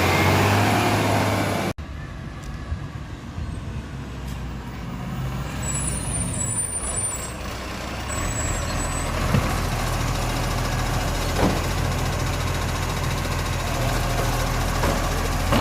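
Garbage truck engine running. It is loud at first with a rising pitch, then the sound cuts off abruptly about two seconds in. It comes back quieter as a steady low hum that slowly grows louder.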